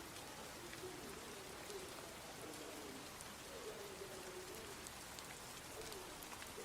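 Steady rain falling, with a bird cooing several times in low, wavering notes.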